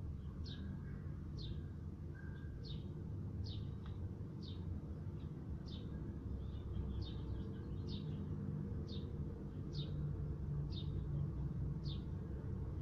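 A bird chirping, one short high chirp about once a second, each falling slightly in pitch, over a steady low hum.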